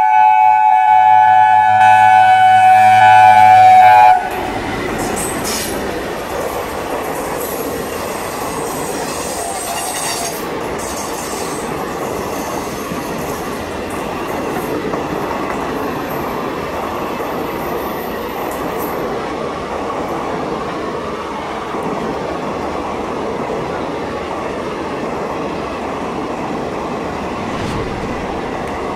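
Indian Railways diesel locomotive sounding its horn, a loud blast of several tones held for about four seconds and cutting off suddenly. Then its passenger coaches roll past with a steady rumble of wheels on the track.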